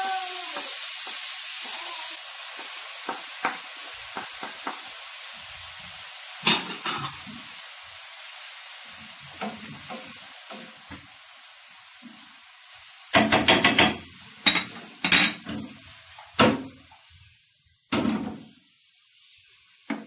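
Sliced peppers and onion sizzling as they fry in a pan, the sizzle slowly fading. A wooden spoon stirs and knocks against the pan, with a run of louder knocks about two-thirds of the way in.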